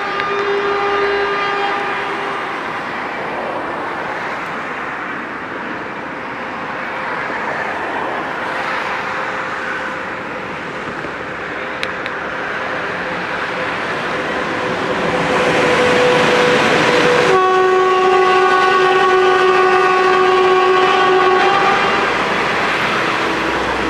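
A passing train on a mainline railway, its locomotive horn sounding twice. The first horn blast ends a couple of seconds in, followed by the steady rushing noise of the train running by. About three-quarters of the way through comes a second, louder horn blast lasting about five seconds.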